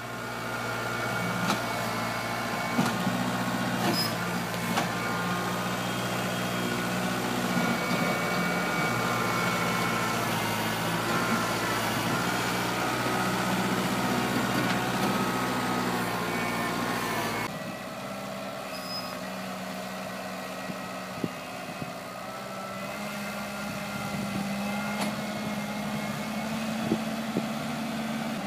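Kubota 47 HP tractor's diesel engine running steadily while the backhoe works, with scattered clanks and knocks. The engine sound changes abruptly about two-thirds of the way through.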